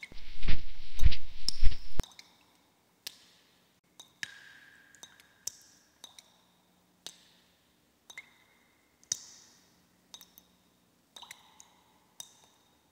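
A loud, harsh rush of noise lasts about two seconds and cuts off suddenly. It is followed by scattered water drips and small clicks in a cave, a few of them leaving a short ringing tone.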